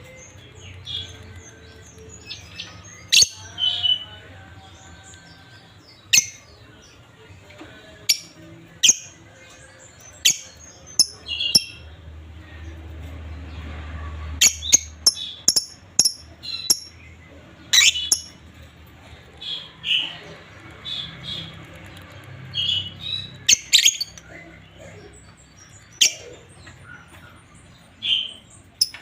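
Pet lovebirds calling in short, shrill chirps and squawks, scattered irregularly, a few seconds apart and sometimes in quick runs.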